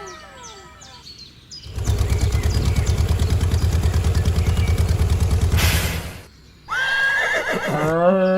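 Toy tractor engine sound effect running with a fast, even chug for about four and a half seconds. It stops, and near the end a high, wavering animal-like call begins.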